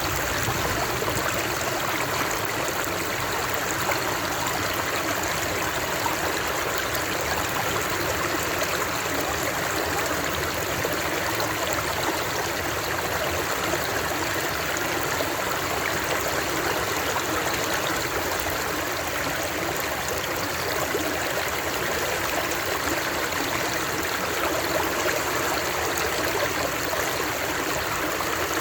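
Running water, a stream flowing steadily with a constant rushing and trickling sound.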